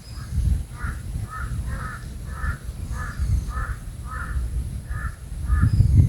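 A bird calling over and over, about ten short harsh notes at roughly two a second, over a low rumbling noise that grows loudest near the end.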